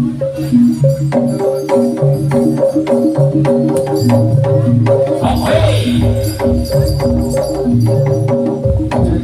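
Javanese gamelan music accompanying a Samboyo dance: a repeating figure of struck metal keys and gongs over low bass notes, with sharp drum strokes throughout and a brief rougher, gliding sound about five and a half seconds in.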